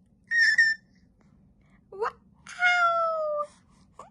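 A four-month-old baby babbling in high squeals and coos: a short high squeak, a quick rising squeal about two seconds in, then a longer call that falls slightly in pitch.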